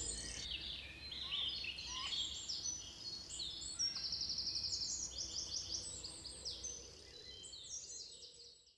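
Several small wild songbirds chirping and calling over one another, with a fast, even trill about four seconds in; the sound fades out near the end.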